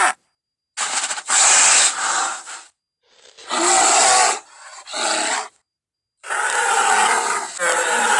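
Cave bear sound effects: a string of roars and growls, about four separate calls of one to two seconds each with abrupt silent gaps between them, the last one still going at the end.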